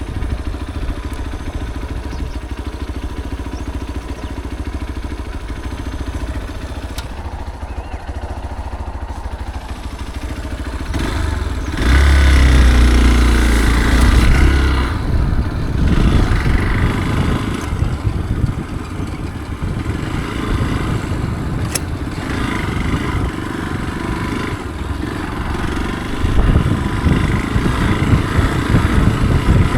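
Motorcycle engine running on a trail ride. It gets clearly louder with more throttle about twelve seconds in for a few seconds, then rises and falls with the throttle.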